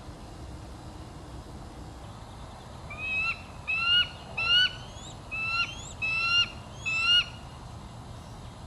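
A bird calling six times in quick succession, starting about three seconds in; each short call rises in pitch and then breaks off sharply.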